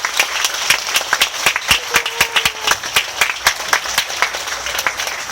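Audience applauding: many hands clapping at once, with a faint voice calling out partway through.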